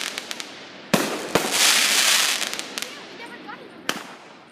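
Consumer firework cake firing aerial shots: two sharp bangs about a second in and another near the end, with a long hissing crackle between them.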